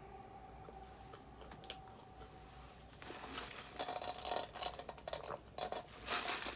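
Irregular bursts of crinkling and crunching begin about halfway through, from eating or handling food and its wrapping, over a faint steady hum.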